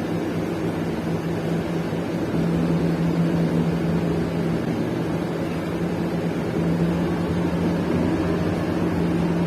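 City bus engine running with road noise, heard from inside the cabin as a steady drone with a constant low hum, slightly louder from about two seconds in.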